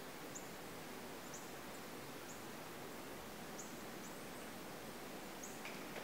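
Faint steady outdoor hiss, with a small bird giving short, high, thin chip notes at irregular intervals, about once a second.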